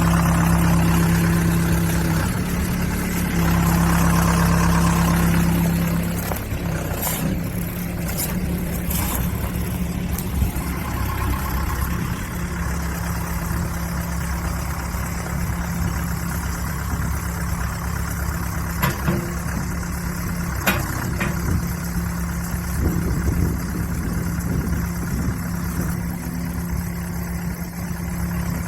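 Backhoe engine running steadily, louder for the first few seconds and then settling to an even, slightly quieter run. A few short knocks and clanks come through, several about seven to ten seconds in and two more past the middle.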